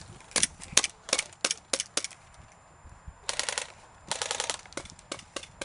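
Airsoft guns firing: a run of single shots about three a second, then two short full-auto bursts about three and four seconds in, followed by more single shots.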